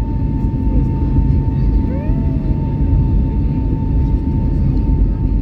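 Airbus A320neo's CFM LEAP-1A turbofan engines running at steady thrust, heard from inside the cabin: a deep, even rumble with a steady whine over it.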